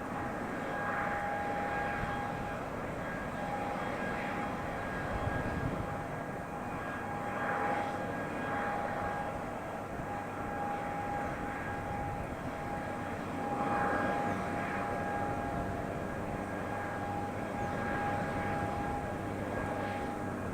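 Jet airliner engines running steadily, a broad even noise with a faint whine held throughout.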